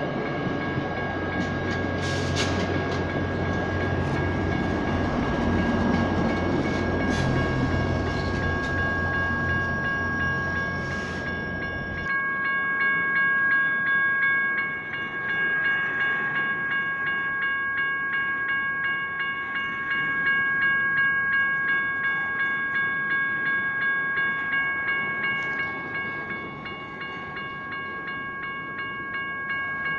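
Railroad crossing's General Signals Type 1 electronic bells ringing steadily. For the first twelve seconds or so a passing train rumbles under the bells, then the rumble cuts off suddenly.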